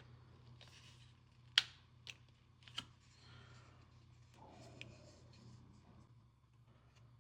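Handling a small plastic blind-box figure and its packaging: a few sharp plastic clicks and taps, the loudest about a second and a half in, with light rustling and rubbing in between.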